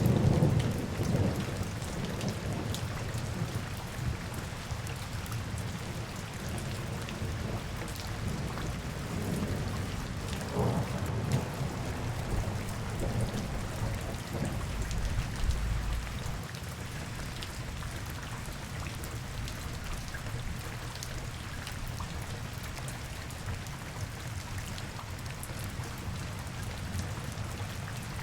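Steady rain falling on hard surfaces, an even hiss with scattered drips and patter. Low rumbles come and go just after the start and again midway.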